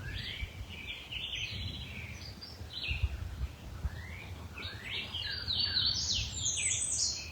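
Songbirds singing: a busy run of chirps and trills that grows denser and higher-pitched over the last few seconds, above a faint low rumble.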